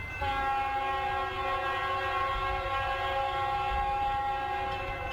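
Canadian National freight locomotive's horn sounding one long chord of several notes, starting just after the beginning and cutting off near the end, over the low rumble of the train.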